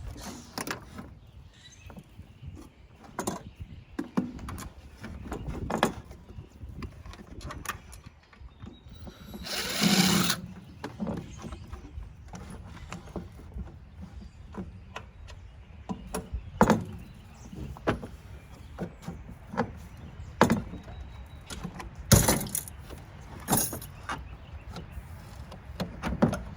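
Irregular metal clicks, clanks and knocks of hand tools working on the parts of a tankless water heater being dismantled, with a louder rasping sound lasting about a second around ten seconds in.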